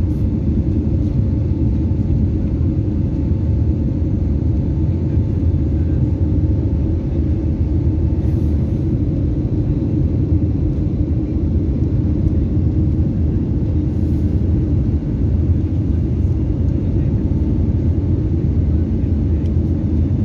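Airliner engine noise during take-off: a loud, steady low rumble with two faint, constant hum tones above it.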